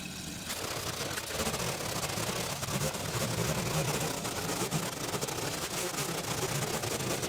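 A small petrol-engined garden power tool running steadily under load.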